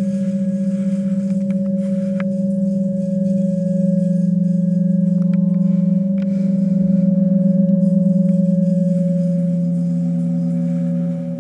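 Sustained electronic drone: a low hum and a steadier higher tone held throughout, the low tone pulsing with slow beats and swelling a little partway through, with a few faint clicks.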